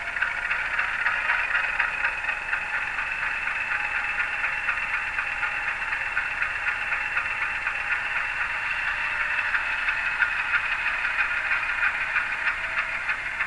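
Sound decoder (ESU LokSound Select) in an HO-scale model locomotive playing a GE diesel engine sound through its small onboard speaker: a steady, rattling engine run that sounds tinny, without bass.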